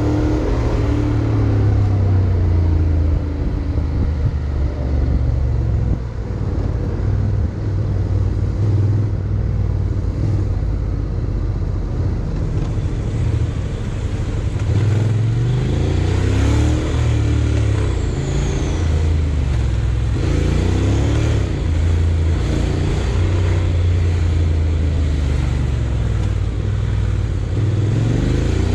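Honda X-ADV 750's parallel-twin engine running under way with steady wind and road rush. The engine note rises and falls several times as the rider accelerates and eases off.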